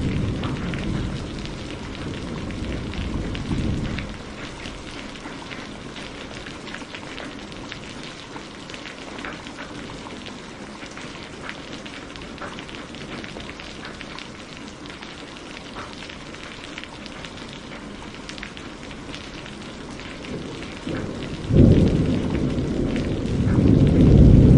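Steady rain falling, with a fine patter of drops. A deep roll of thunder dies away over the first few seconds, and a sudden loud thunderclap breaks about three seconds before the end and rumbles on.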